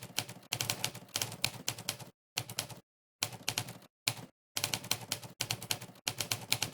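Monkeytype's typewriter keystroke sound effect, one sampled typewriter key clack played for each key pressed during fast typing. The clacks come in quick runs broken by short, dead-silent pauses.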